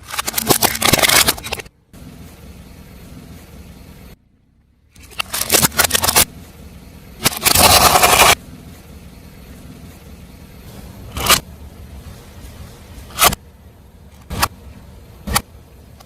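Crunchy objects cracking and crunching under a car tyre in three loud bursts, then four single sharp snaps, over the low running of the car.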